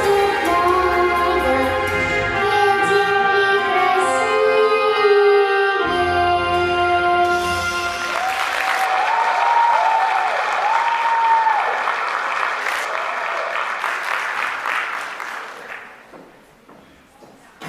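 Recorded stage music plays for about the first half, then audience applause breaks out with a few voices calling over it, fading out near the end.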